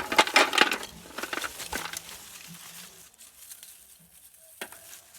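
Lumps of charcoal being handled and gathered: a quick run of rustles and clinks through the first two seconds, then quieter, with a single knock near the end.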